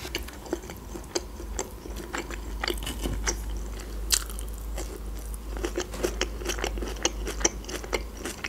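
A person chewing and biting into raw red bell pepper, with a steady run of crunches and mouth clicks. The sharpest crunch comes about four seconds in.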